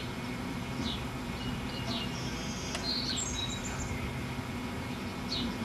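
A bird chirping: short, falling chirps about a second apart, with a quick run of higher twittering notes two to three seconds in, over a steady low background hum.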